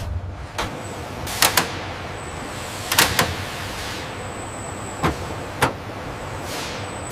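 Factory ambience: a steady mechanical hum and hiss with a faint high whine, broken by sharp clanks, two close together about one and a half seconds in, two more about three seconds in, and single ones around five seconds and just after.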